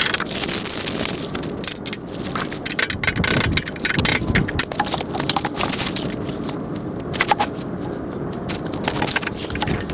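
Irregular crunching, scraping and clicking, a busy run of sharp clicks over a steady noise.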